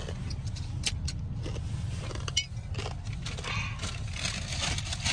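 Car engine running, a steady low rumble heard from inside the cabin, with scattered small clicks and rustles of things being handled.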